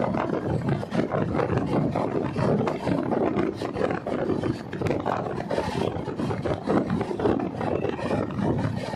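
Passenger train running on the rails: a steady rumble with dense rattling.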